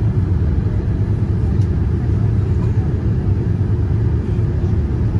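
Steady low rumble of a Boeing 787-9 airliner, heard from inside the cabin.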